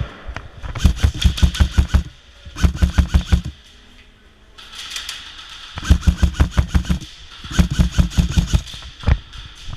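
Airsoft electric rifle firing on full auto in four bursts of about a second each, a rapid, even chatter of shots.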